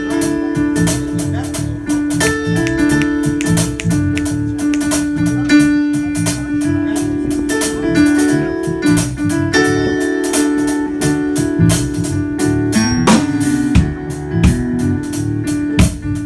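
Instrumental band music: held keyboard chords over a steady drum beat.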